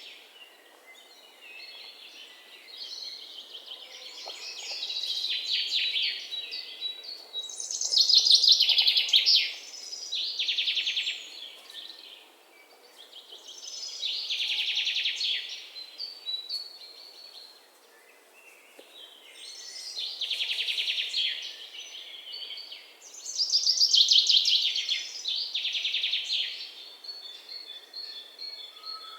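Songbird singing: phrases of rapid trilled, chirping notes, each one to three seconds long, repeated every few seconds with short quieter gaps.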